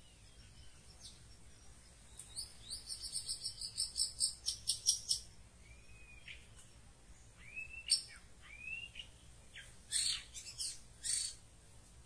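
Songbird calls: a fast run of high rising chirps lasting about three seconds, then a few separate curving whistles and several sharp, high notes near the end.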